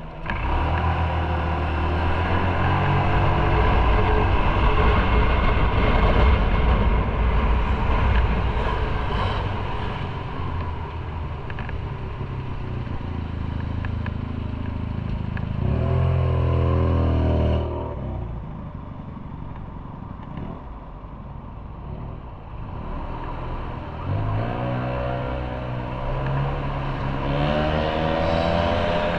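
Motorcycle engine running under way with wind and road noise. It opens up just after the start and its pitch climbs under acceleration in the middle and again in the last few seconds, easing off about two-thirds through.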